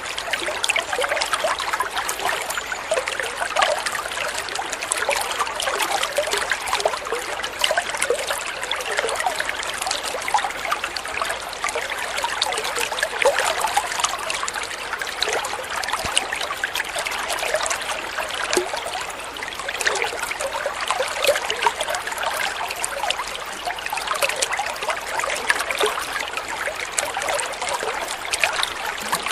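Flowing water trickling steadily, a constant light splashing and bubbling without pause.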